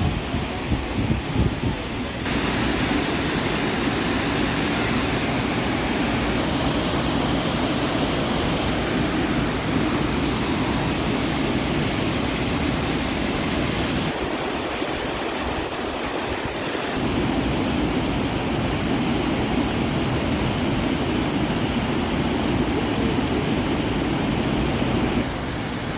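Waterfall cascading, a steady rushing of falling water whose tone shifts abruptly about 2, 14 and 25 seconds in. There are low rumbling bumps in the first two seconds.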